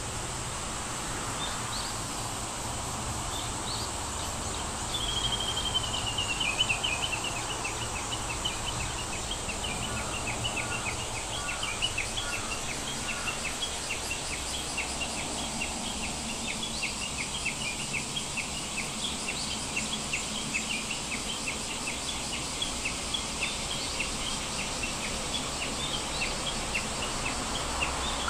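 Birds chirping over a steady hiss: a descending trill about five seconds in, then short high chirps repeating a few times a second.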